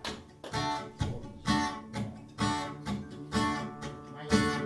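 Guitar strumming chords, about two strokes a second, each chord ringing out briefly before the next: the solo intro to a song, with the full band coming in right after.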